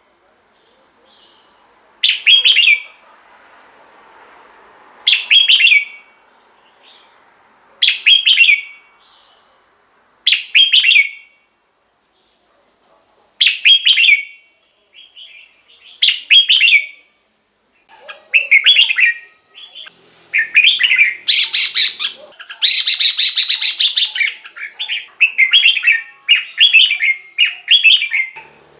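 Red-whiskered bulbul singing: short song phrases spaced about three seconds apart, then from about eighteen seconds in a faster, almost unbroken run of phrases.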